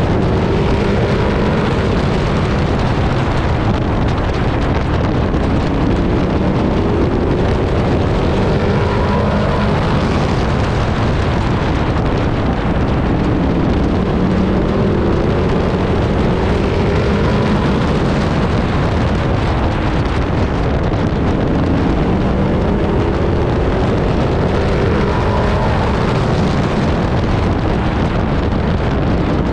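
Pro Truck race truck's engine heard from inside the cab at racing speed, its pitch rising and falling over and over as the driver gets on and off the throttle.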